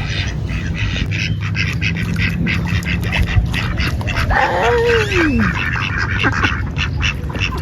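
Ducks quacking in a steady run of short calls, with one longer call falling in pitch a little after four seconds in.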